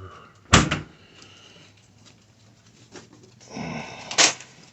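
Two sharp bangs, like a door or lid being shut: a loud one about half a second in with a short ring-out, and another near the end after a few seconds of rustling and shuffling.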